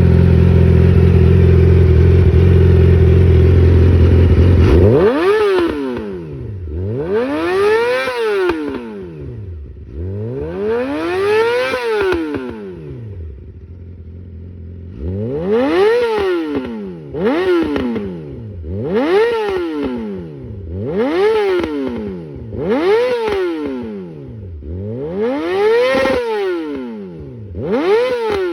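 Yamaha YZF-R6 inline-four sport bike through an SC-Project SC1-R exhaust. The engine holds a steady speed for about five seconds, then drops and is revved in a series of about nine throttle blips, each climbing steeply to high revs and falling back toward idle. The blips come quicker toward the end.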